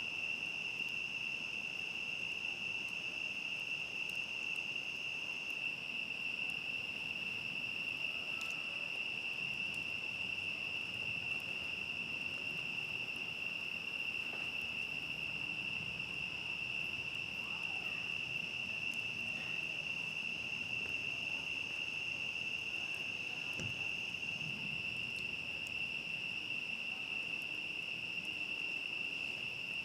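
Crickets and other night insects trilling in a steady, continuous high-pitched chorus. A second, higher trill drops out about five seconds in and comes back for several seconds past the middle.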